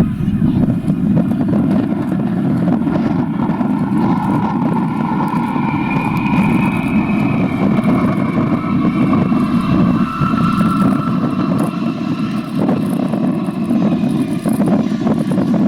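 Jet engine noise of a USAF C-32B (Boeing 757) with Rolls-Royce RB211-535E4 turbofans on landing: a loud, steady rumble with whining tones that shift in pitch around the middle.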